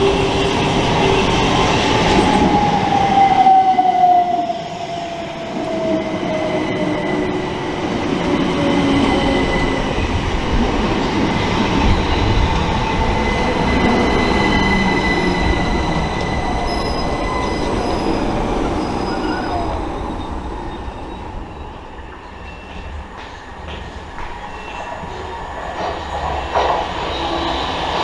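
Electric multiple-unit train moving along the platform, its rumble loud, with a whine that falls in pitch in the first few seconds and a thin high wheel squeal held for several seconds. The sound eases off towards the end.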